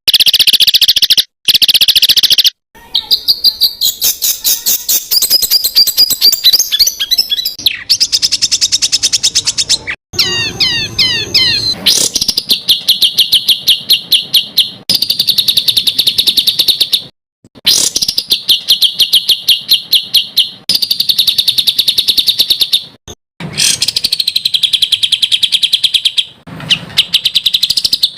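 Songbird song for competition-bird training, made of very fast runs of repeated sharp high notes ("tembakan" bursts). The runs come in spliced segments that cut off and restart abruptly several times, with a stretch of looping, warbling notes about ten seconds in.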